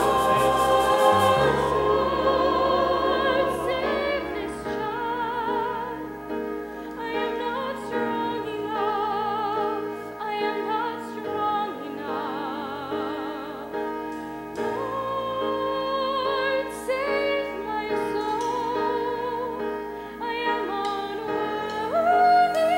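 Musical theatre cast singing long held notes with vibrato over instrumental accompaniment, in a live stage mix.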